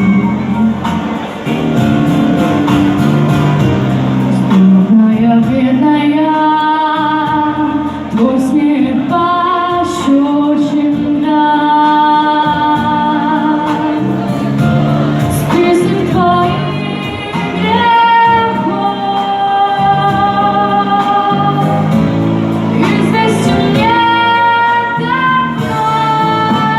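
A female voice singing a song over a backing track with guitar, holding long notes.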